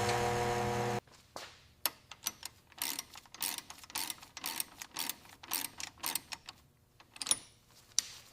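A steady machine hum cuts off suddenly about a second in. It is followed by a run of light, irregular mechanical clicks and taps, about two or three a second, from hand work with tools on metal parts, which thin out near the end.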